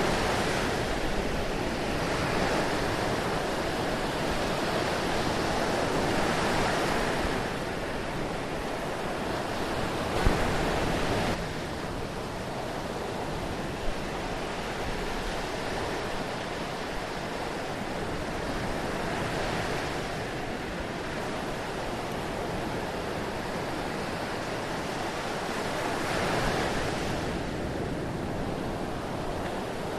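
Sea waves washing in: a continuous rush of surf that swells and eases every few seconds.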